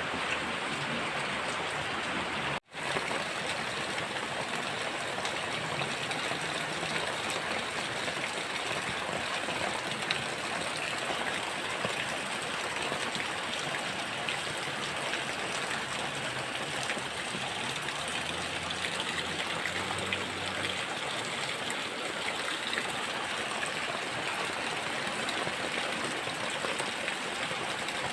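Heavy rain falling steadily, an even hiss of water with no break except a split-second cut-out about two and a half seconds in.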